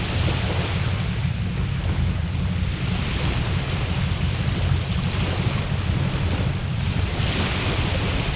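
Wood fire burning in a fire pit: a steady rushing with a heavy low rumble of wind on the microphone and a steady high-pitched whine.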